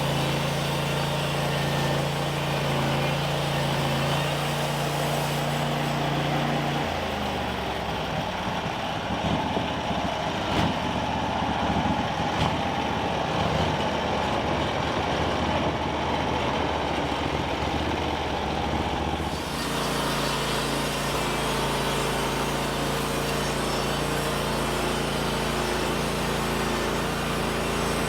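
An engine running steadily. About seven seconds in, its steady note breaks up into a rough, uneven sound for about twelve seconds, then settles back into a steady run.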